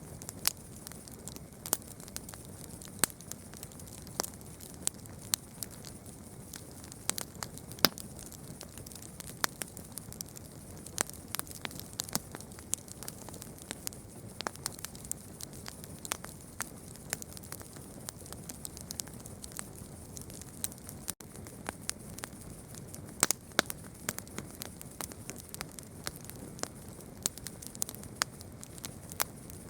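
Campfire crackling: irregular sharp pops and snaps of varying loudness over a steady low hiss, with a momentary drop-out about two-thirds of the way through.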